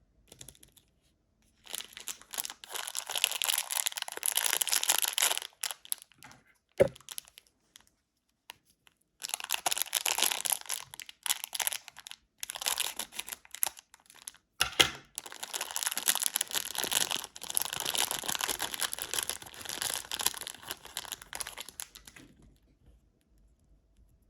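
Plastic and foil candy wrappers being crinkled and torn open in several bouts, with two sharp snaps or taps along the way.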